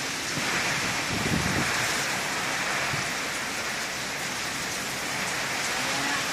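Heavy monsoon rain pouring steadily in strong wind, with a few low gusts buffeting the microphone in the first two seconds.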